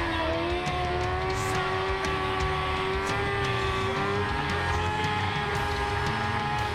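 Yamaha R6 sport bike's inline-four engine running at high revs. Its pitch climbs through the first half second, then holds nearly steady. Low wind rumble runs underneath.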